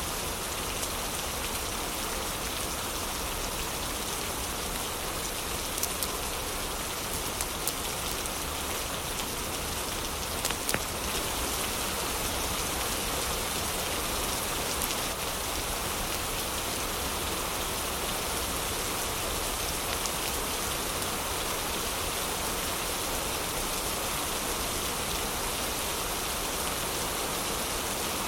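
Heavy rain falling steadily, an even dense hiss of drops, with a few sharp clicks or pops standing out in the first half.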